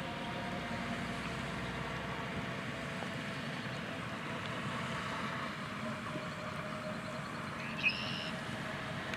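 Farm harvest machinery running with a steady drone and a faint whine. A brief high-pitched chirp comes a little before the end.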